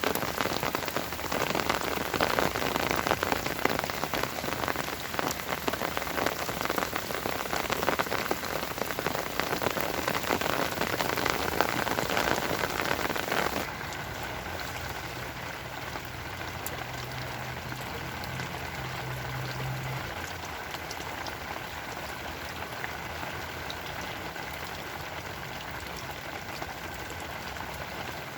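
Rain falling steadily, a dense patter of many drops striking a surface. About halfway through it cuts abruptly to softer, quieter rain, with a faint low hum for several seconds.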